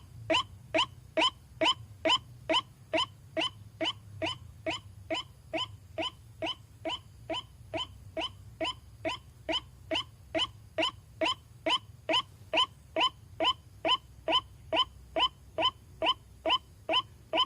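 White-breasted waterhen (ruak-ruak) call, played as a lure recording. It is a long, even series of short, nasal-sounding notes at about three a second, over a faint low hum.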